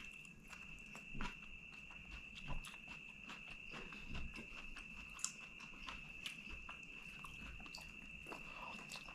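Close-miked eating sounds: chewing a bitten fried green chili and mouthfuls of rice and curry eaten by hand, with scattered wet mouth clicks and smacks. A steady thin high-pitched tone runs underneath.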